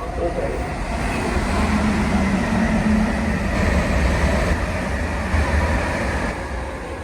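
Train pulling into a station platform: a steady rumble and rush of wheel and rail noise that swells over the first couple of seconds and eases off near the end as it slows.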